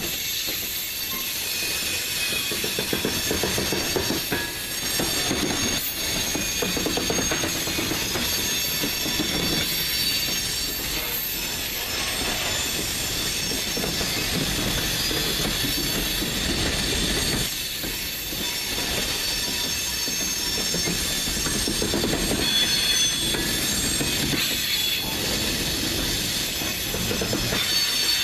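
Freight cars rolling steadily past on a curve: steel wheels squealing thinly against the rails over the rumble of the train, with occasional clacks from the wheels over the track.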